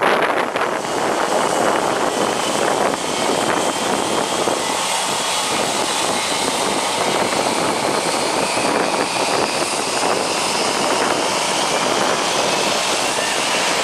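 Jet airliner engines running at high power: a loud, steady rush of noise with a faint whine that shifts slowly in pitch.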